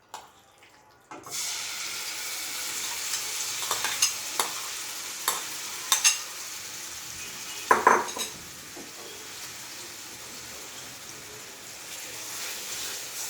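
Marinated chicken pieces hit hot oil in a pan and start sizzling loudly about a second in. A utensil stirs them, knocking and scraping against the pan several times. The sizzle settles to a quieter steady level after about eight seconds.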